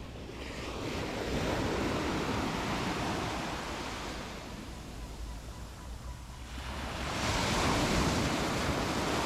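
Sea waves breaking and washing up on the shore, swelling twice as two waves come in several seconds apart.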